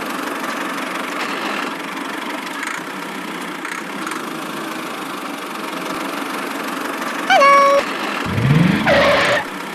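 A small vehicle engine runs steadily. About seven seconds in, a short, horn-like held tone sounds, and a brief rising sound follows near the end.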